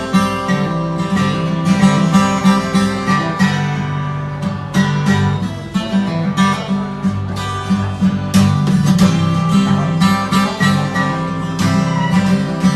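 Acoustic guitar playing an instrumental passage of a slow song, strummed chords with no singing.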